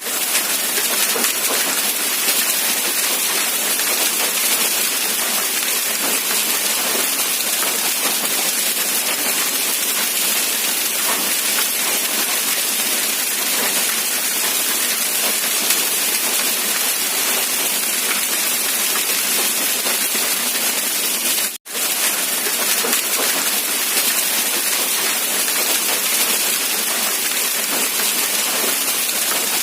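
Steady rain, an even hiss of dense drops with no distinct single splashes, cutting out for a split second about two-thirds of the way through.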